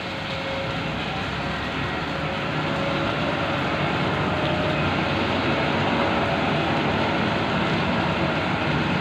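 Heavy vehicle engine running steadily under a dense hiss of heavy rain, with a faint steady whine that fades out about halfway through.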